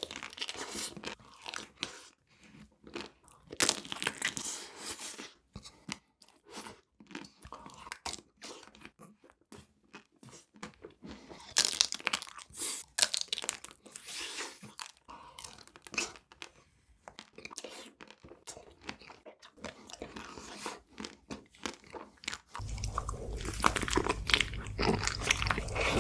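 Close-miked chewing and crunching of sweets, many crisp bites and chews in uneven bursts. Near the end louder crunching comes in over a steady low hum.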